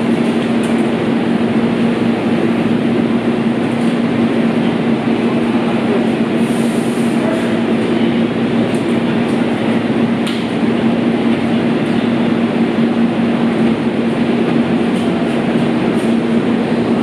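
JR Shikoku 8000-series electric express train standing at the platform: a steady hum over a dense, even noise from the train and station. The train is moving off near the end.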